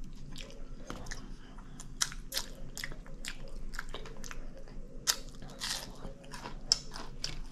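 Close-miked chewing of a mouthful of potato salad: irregular wet mouth clicks and smacks.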